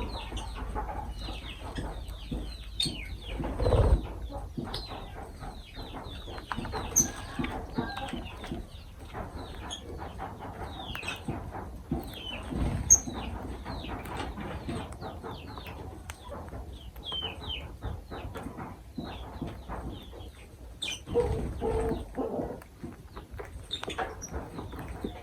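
Lovebirds chattering: a steady run of many short, high, falling chirps, with a few louder low thumps now and then.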